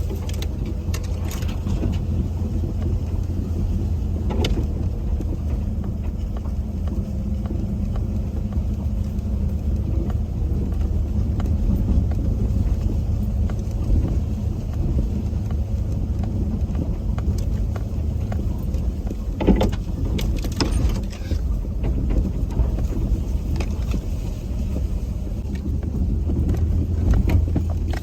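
A truck driving: steady low engine and road rumble, with a few short clicks and rattles.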